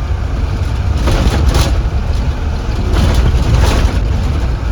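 Cabin noise inside a Blue Bird Vision school bus under way: a steady low engine and road rumble, with two brief louder stretches of rattling, about a second in and again past three seconds.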